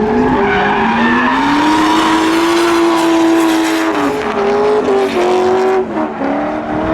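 Drift car engine revving hard with tyres squealing and skidding. The engine pitch climbs steadily, then drops sharply twice, about four and six seconds in.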